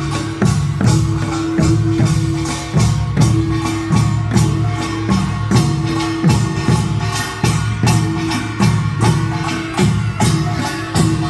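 Korean pungmul farmers' band percussion playing a fast steady rhythm: clanging small gongs over drums and a low ringing gong, with strong beats recurring about every two-thirds of a second.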